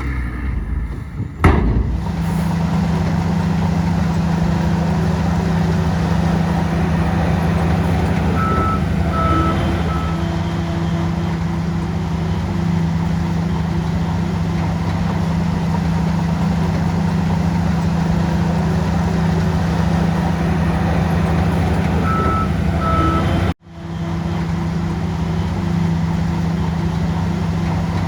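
Heavy diesel earthmoving machine, likely the bulldozer, running steadily under load, with a reversing alarm beeping three times in two separate runs. A sharp click near the start, and the sound cuts out for an instant about three-quarters through.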